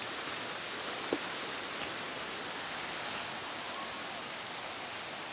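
Steady, even outdoor hiss of rain or wind noise, with a faint short tick about a second in.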